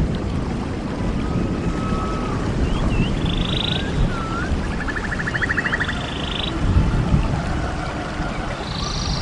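A songbird singing repeated phrases: a few short slurred whistles, then a fast buzzy trill, about every three seconds. Under it is a steady low rushing noise.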